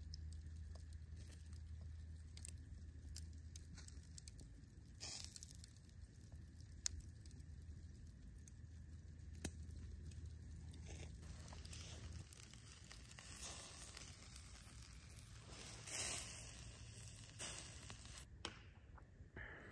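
Faint rustling and crinkling, with a few sharp clicks in between.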